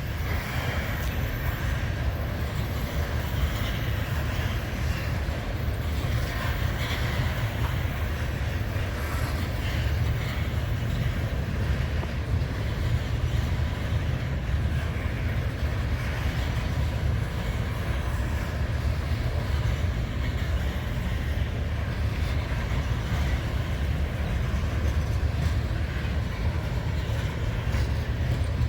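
Freight train cars rolling past, a steady low rumble of wheels on rail that does not let up.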